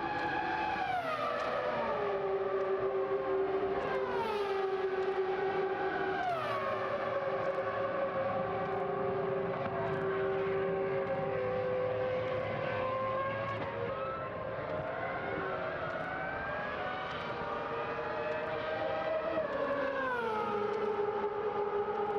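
Ferrari racing engines running at high revs on the circuit, their pitch stepping down through a series of gear changes several times and climbing again in between.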